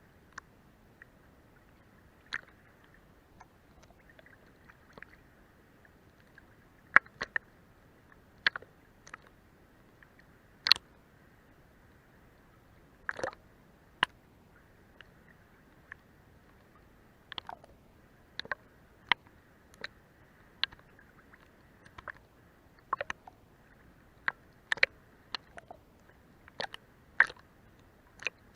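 Seawater lapping under a boat's hull: irregular small slaps, plops and clicks about once a second, some much sharper than others, over a faint steady wash of water.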